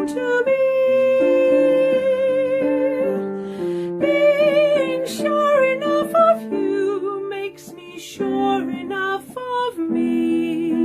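Woman singing a gentle ballad over a soft instrumental accompaniment, holding long notes with vibrato; the first held note runs from about half a second in to about three seconds.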